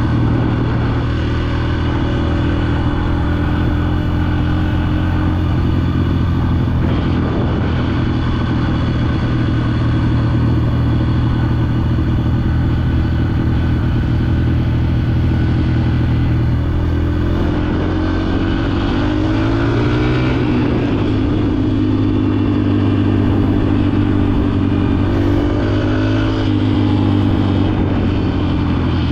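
Dirt bike engine running under way, steady at first; a little over halfway through the pitch drops and then rises and falls a few times with the throttle.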